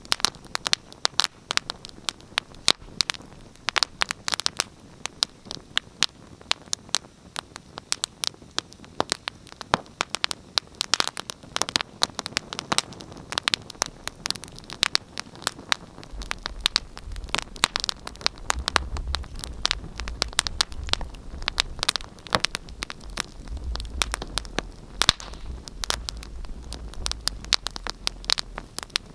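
Wood fire burning in a fireplace, crackling with frequent irregular sharp pops over a steady hiss. A low rumble joins about halfway through and fades out near the end.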